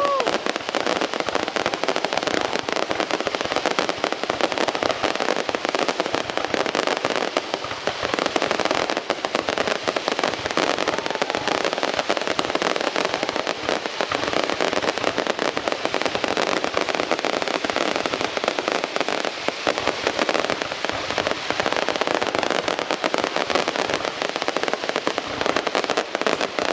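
Fireworks display: a dense, unbroken barrage of bursting aerial shells and crackling that keeps an even loudness throughout.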